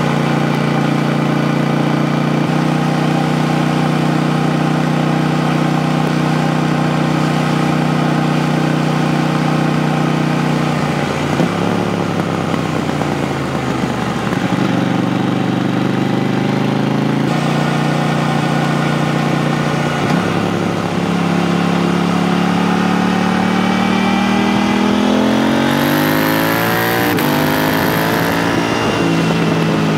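KTM 890 Duke R's parallel-twin engine through an HP Corse Evoxtreme 310 exhaust with its dB killer fitted, under way. It holds steady revs for about ten seconds. The pitch then steps several times as the gears change, and near the end the revs climb steeply before dropping away.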